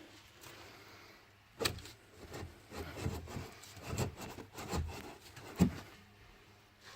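A timber beam being worked loose: irregular wooden knocks and thumps, about six over a few seconds, with some scraping of wood between them.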